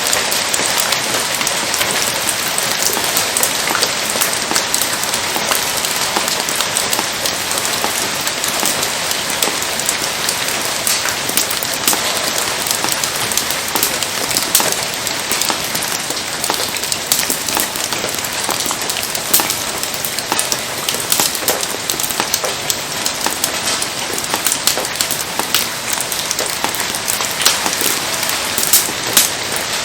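Steady rain falling hard, a dense hiss dotted with many sharp taps of individual drops hitting nearby surfaces.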